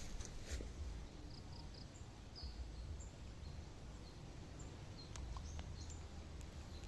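Rural outdoor ambience: a steady low rumble with short, high bird chirps here and there, and a few faint clicks about five seconds in.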